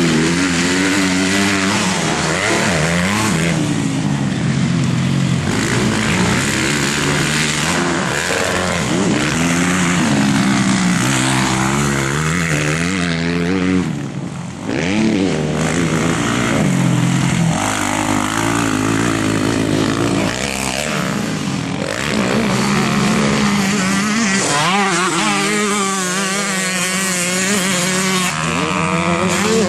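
Motocross dirt bikes racing on the track, engines revving hard and dropping back as they shift and brake, the pitch rising and falling over and over, with a brief lull about 14 seconds in.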